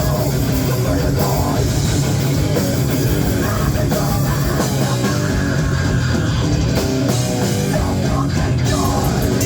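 Extreme metal band playing loud and fast live: distorted electric guitars, bass and pounding drums, heard through a phone's microphone in the crowd.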